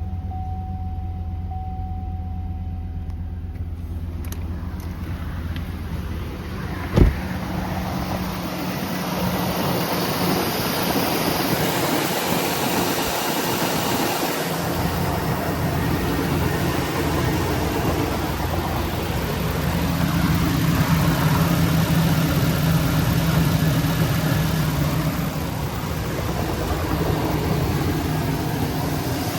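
2003 Chevy Suburban's 5.3-litre V8 idling steadily, with one sharp thump about seven seconds in. The engine sound grows louder after the thump and is loudest around twenty seconds in.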